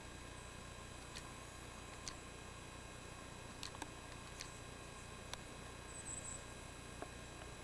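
Quiet background with a steady faint hum and high whine, broken by scattered sharp little clicks about once a second and a brief high chirp about six seconds in.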